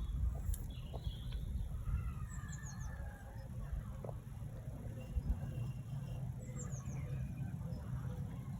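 Small birds chirping outdoors: quick series of short, high, falling chirps, twice, over a low steady rumble.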